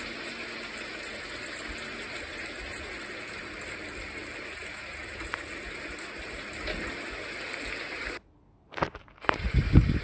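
Steady hiss of wind-driven noise outdoors in a blizzard, which cuts off abruptly about eight seconds in; after a brief silence, low rumbling gusts of wind buffet the microphone near the end.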